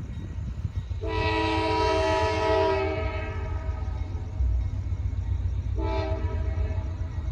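Diesel freight locomotive's multi-note air horn: one long blast of about two seconds, then a short toot about three seconds later, over the low rumble of the passing train.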